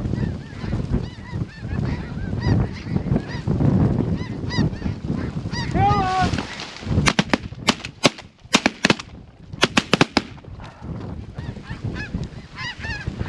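Snow geese honking steadily in many short, high calls. About seven seconds in, shotguns open up in a rapid volley of roughly a dozen shots over about three seconds, with the honking carrying on around it.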